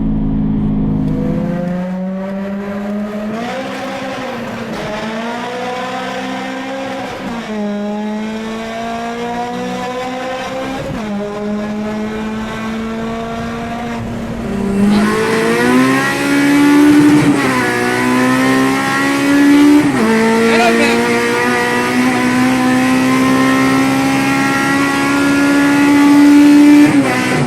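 Honda K20 four-cylinder engine pulling hard through the gears. Its pitch climbs and drops back at each shift, several times, and it grows louder about halfway through.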